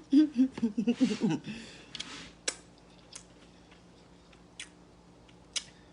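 Eating sounds from someone working through a stewed salmon fish head: a brief murmur of the voice, then a short sucking slurp and a few sharp, widely spaced wet mouth clicks and smacks.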